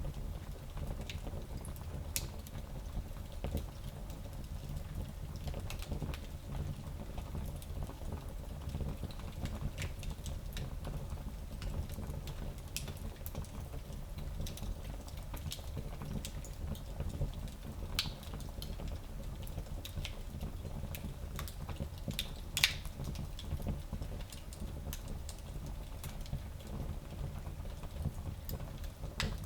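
Wood fire burning in a small fireplace: a steady low rumble of flame with irregular crackles and small pops, one sharper pop about three quarters of the way through.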